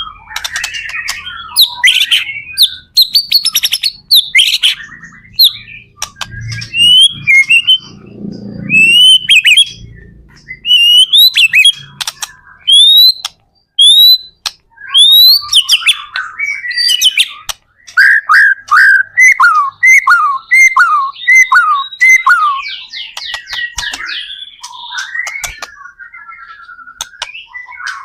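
White-rumped shama (murai batu) singing loudly and without pause: a varied run of rising whistles and chattering notes, with a string of repeated falling notes a little past the middle.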